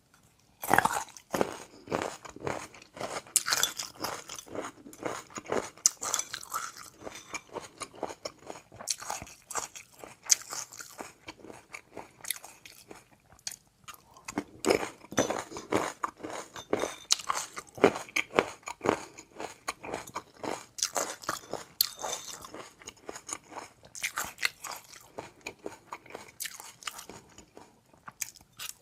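A person eating close to the microphone: quick, irregular crunching bites and chewing, with short pauses between mouthfuls.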